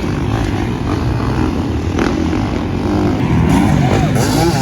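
Several motocross dirt bikes racing, their engines revving up and down in rapid, overlapping changes of pitch.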